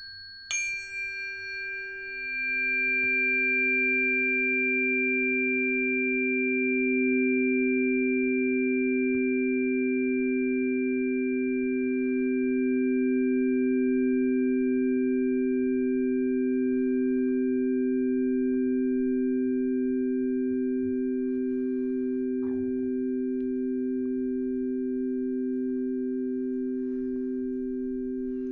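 Sustained ringing tones of sound-healing instruments: two high tones struck at the start ring on, and a pair of low, pure tones swells up about two seconds in and holds steady with a slow pulsing beat.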